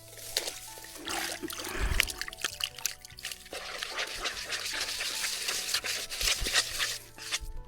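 Fishing groundbait poured from a bag and scattered into river water: a dense patter of many small grains splattering onto the surface, with a low thud about two seconds in.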